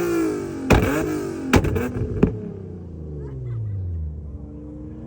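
Performance car engine revved hard in quick bursts, with three loud sharp cracks in the first couple of seconds. Then the engine note falls steadily and settles to a lower, steady running sound.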